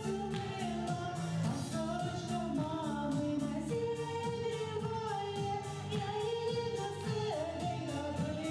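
A song: a singing voice carries a melody over an instrumental backing with a steady beat.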